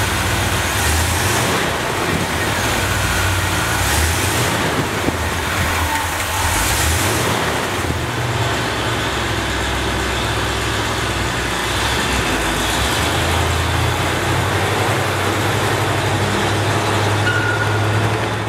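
1969 International truck running steadily, a low engine rumble under a broad hiss of road and wind noise.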